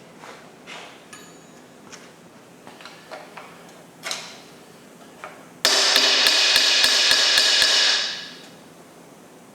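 Quick run of metal-on-metal hammer blows, about four a second for about two seconds, loud and ringing. Before them come a few light clinks of tools.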